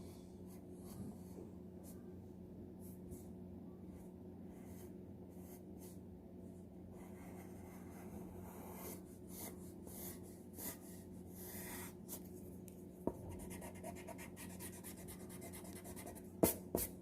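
Pencil sketching on paper: soft, irregular scratchy strokes as a drawing outline is worked over, with a couple of sharper taps near the end. A faint steady hum runs underneath.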